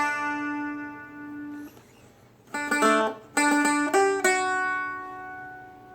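Seagull Merlin, a four-string strumstick-style dulcimer, picked in open D tuning. A held note rings and dies away, then after a short pause a quick run of notes is played and the last ones are left ringing.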